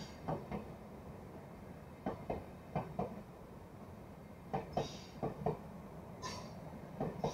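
DB ICE high-speed train passing at moderate speed, a steady rumble with its wheels clacking over the track in quick double clicks, six pairs in all, as each bogie's two axles cross.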